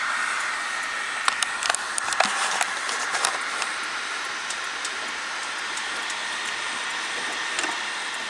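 Steady hiss with a faint steady whine underneath, broken by a handful of sharp clicks and taps about one to three and a half seconds in and once more near the end, as of small metal parts being handled on the mower.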